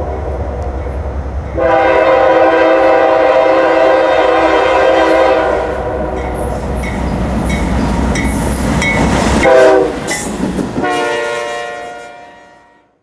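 Diesel locomotive air horn sounding long blasts as a chord of several notes, with a rougher, rushing stretch in the middle; the sound fades out near the end.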